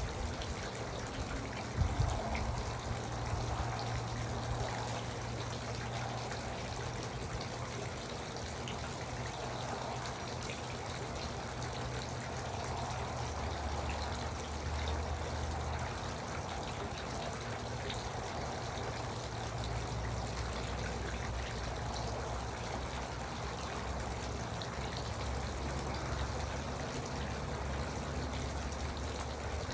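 Garden water fountain trickling and splashing steadily, over a low rumble, with a brief knock about two seconds in.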